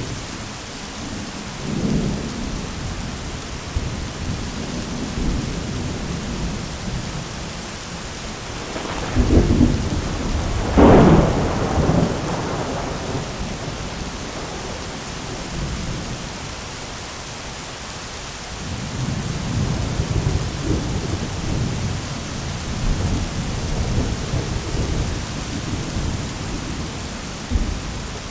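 Thunderstorm: steady rain with rolling thunder. The loudest peal comes about a third of the way in, and low rumbling picks up again in the second half.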